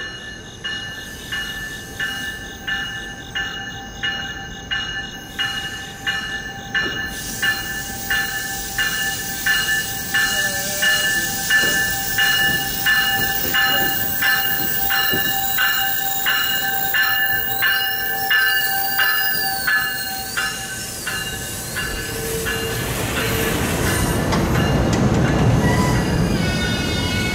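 An NJ Transit commuter train's bell rings steadily, about one and a half strokes a second, growing louder as the train approaches. A wavering high squeal comes in briefly near the end of the ringing, and then the low rumble of the double-deck cars rolling past builds.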